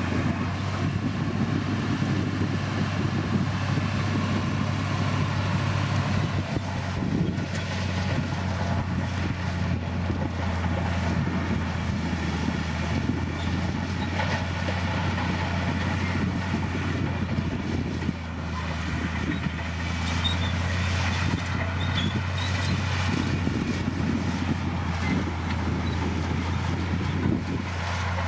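Komatsu D60P bulldozer's diesel engine running steadily with a deep, even drone, dipping briefly about eighteen seconds in.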